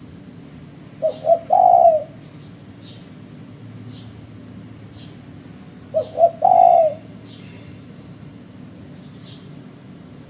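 Spotted dove (tekukur) cooing: two phrases about five seconds apart, each two short coos followed by one longer coo. A small bird chirps high and regularly, about once a second, throughout.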